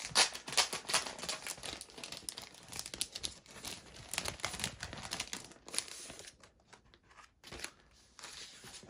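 Crinkly packaging and vellum paper rustling and crinkling as the vellum sheets are unwrapped and handled, dense for the first six seconds or so, then sparser with short pauses.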